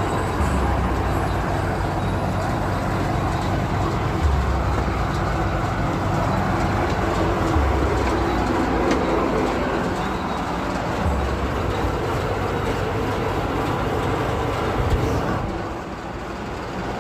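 New Holland 3630 tractor's diesel engine running, a steady mechanical noise with a deep rumble that swells and eases every few seconds, dropping a little near the end.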